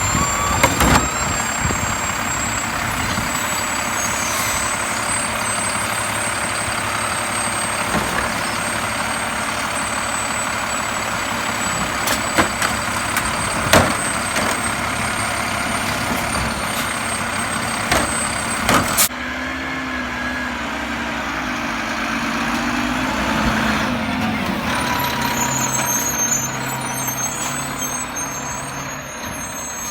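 Garbage truck running, with several sharp knocks and clanks. About two-thirds of the way through the sound changes abruptly, and the engine's pitch rises and falls.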